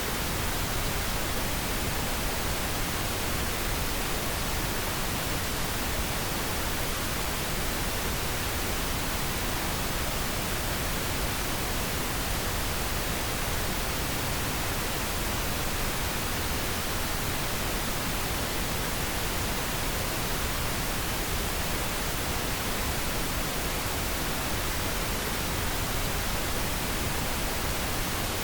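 Pink noise: a steady, even hiss with no change or events.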